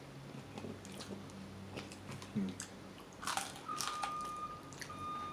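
A person chewing and biting into McDonald's chicken nuggets close to the microphone, with scattered small crunches and mouth clicks. A high steady tone starts about two-thirds of the way in and sounds in on-off stretches.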